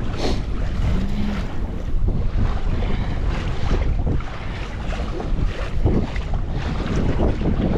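Strong wind buffeting the microphone in gusts, over choppy lake water lapping at a kayak.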